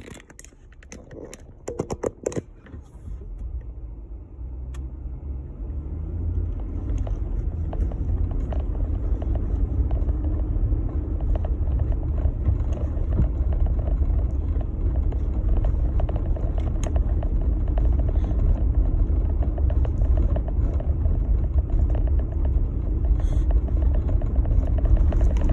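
Jeep Gladiator driving: a low rumble of engine and tyres that builds over the first several seconds as it gets under way, then holds steady. A few sharp knocks near the start.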